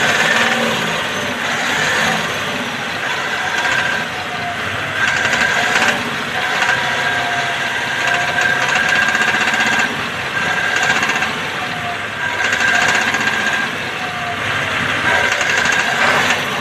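Ashok Leyland BS4 truck diesel engine running with uneven swells in loudness; the engine has an injector nozzle problem.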